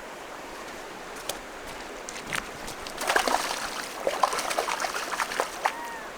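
River water running and trickling, with a spell of splashing and sloshing in the second half.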